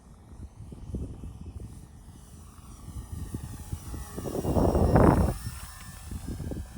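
E-flite Twin Otter radio-controlled model plane flying, its twin electric motors giving a faint high whine that slowly shifts in pitch. Wind buffets the microphone throughout, with a loud gust about four to five seconds in.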